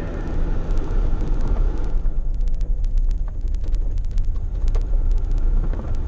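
Steady low rumble of road traffic, with scattered faint clicks.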